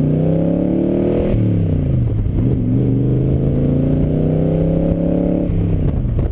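Superformance AC Cobra's 392 cubic inch Roush V8 accelerating hard, its pitch climbing, with two upshifts where the pitch drops: one about a second in and one near the end.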